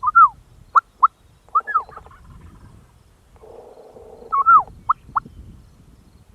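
Turkey calling: short, sharp clucks and cutts in two quick bunches, one near the start and one about four seconds in, with a rougher rattling call between them.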